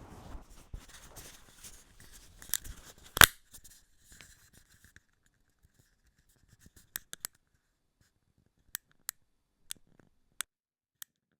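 Scratchy rustling and clicks, with one loud click about three seconds in, then a string of about eight single sharp clicks spaced irregularly.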